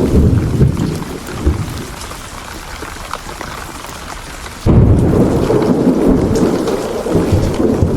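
Thunderstorm: steady rain with rolling thunder. The deep rumble fades over the first second or two, then a loud rumble of thunder comes in suddenly a little past halfway and rolls on.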